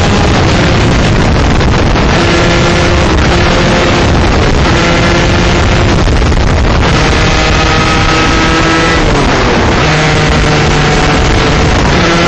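A 125cc two-stroke shifter kart engine at full race pace, its pitch climbing through the revs and breaking off again and again as it shifts gears and slows for corners, over heavy wind rush on the microphone.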